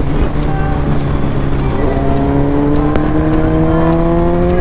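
Motorcycle engine accelerating: its pitch climbs steadily, falls back at a gear change about two seconds in, then climbs again, with wind and road noise underneath.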